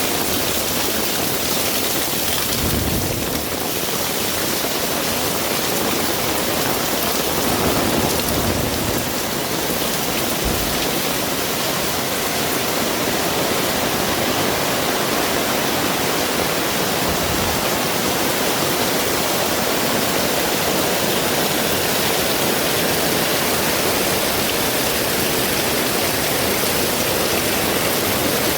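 Heavy rain pouring steadily, a dense even hiss of rainfall. Brief low rumbles come and go a few times.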